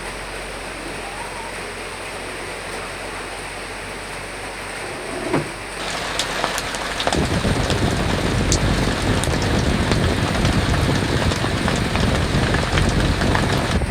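Recorded rain with wind: a steady rushing hiss for the first six seconds or so. Then heavier rain comes in, louder, with many sharp drops pattering.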